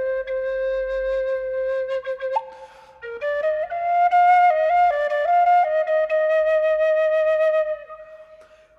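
Solo flute playing a slow, ornamented folk melody, one line of notes with a short break about two and a half seconds in and a fade near the end.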